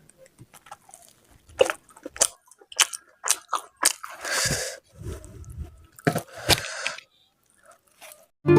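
Eating sounds: a run of sharp, crisp crunching bites with chewing in between.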